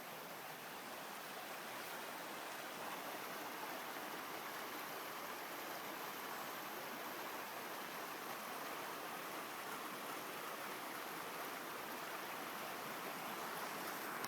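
Shallow brook babbling over rocks, a steady rush of running water.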